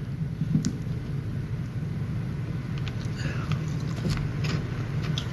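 A steady low background hum, with a few faint scattered crunches as a sweet potato chip is bitten and chewed.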